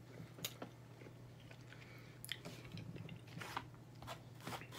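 Close-up chewing and biting into takeout food, with faint scattered crisp crunches and mouth clicks.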